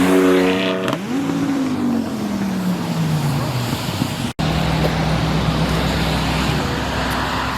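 Car engine revving hard, its note climbing sharply then falling slowly away over a couple of seconds; after a cut, a steady low engine rumble.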